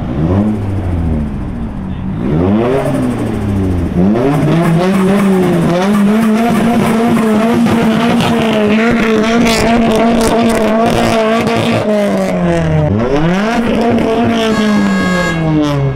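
A car engine being revved hard: a few quick blips, then held at high revs for about seven seconds, dropping back and revved once more near the end.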